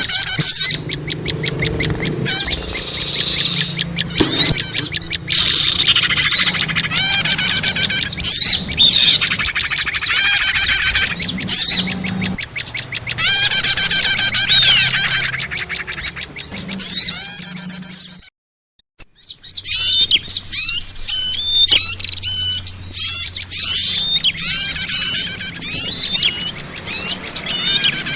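Lure recording of small songbirds calling together: rapid, high chirps and trills, loud and busy. Two-thirds of the way through the sound cuts out for about a second, then the chirping resumes.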